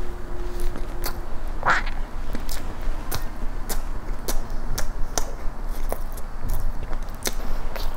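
Close-miked chewing with the mouth closed: wet mouth clicks and smacks, roughly one to two a second, with one brief squeak about two seconds in.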